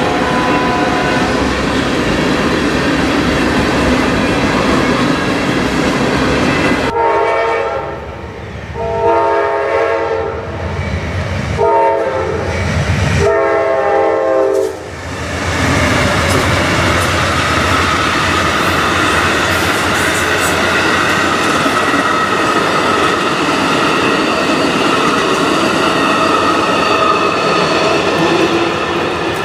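Diesel locomotive horn sounding a series of blasts, four in quick succession about a third of the way in, as the train passes. The train runs loud and steady with wheels clattering over the rails.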